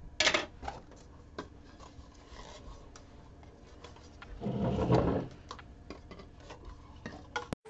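Handling noises at a work table: a short rub, scattered light taps, and a longer rubbing scrape about four and a half seconds in.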